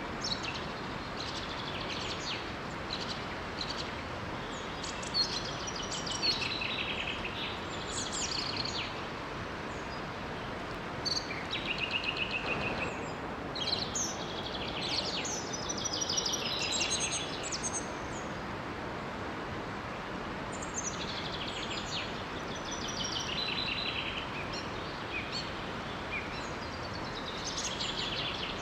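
Songbirds singing in short, repeated chirping phrases over the steady rush of a small waterfall.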